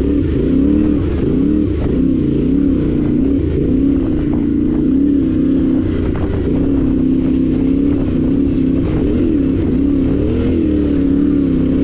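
Yamaha Ténéré 700's parallel-twin engine running steadily under way, its pitch rising and falling gently with the throttle.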